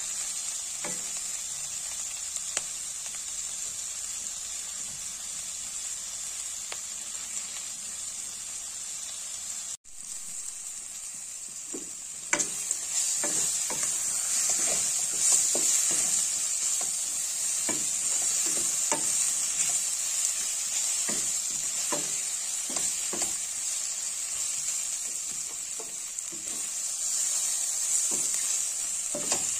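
Dried salt fish frying with tomatoes, green chillies and onions in a stainless steel wok: a steady sizzle, with a wooden spatula stirring and knocking against the pan. The sound drops out briefly about ten seconds in; after that the sizzle is louder and the spatula knocks come more often.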